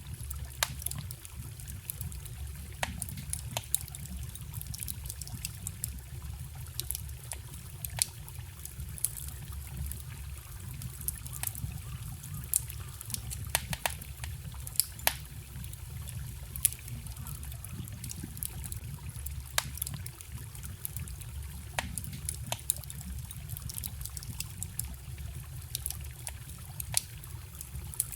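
Campfire crackling with frequent, irregular sharp pops over the steady trickling rush of a small forest stream.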